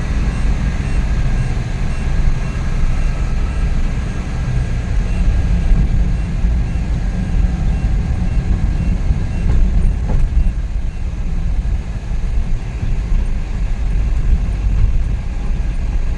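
Suzuki DA64V van's freshly rebuilt K6A three-cylinder engine and road noise heard from inside the cabin while driving along, a steady low rumble.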